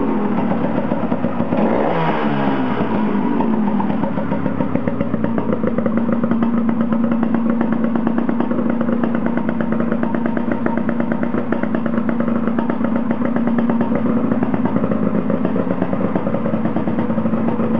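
Honda NSR125 (JC22) two-stroke single-cylinder engine sounding through an under-seat exhaust. It is blipped once, a quick rise and fall in revs, about two seconds in, then runs steadily.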